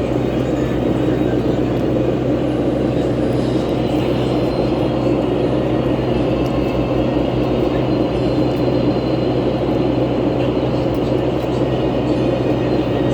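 Cabin noise inside a New Flyer C40LF transit bus under way: a steady drone of the engine and running gear with a constant low hum underneath.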